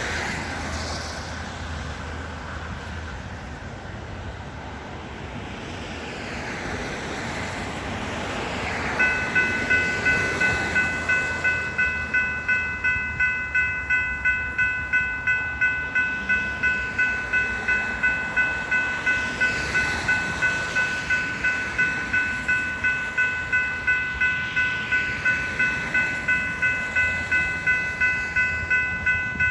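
Hiss of rain and passing traffic, then about nine seconds in a railroad grade-crossing bell starts ringing, about two strikes a second, as the crossing gates warn of an approaching Metra train.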